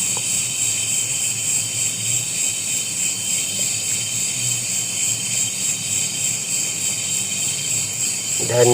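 Steady, high-pitched chorus of crickets and other insects, unbroken throughout.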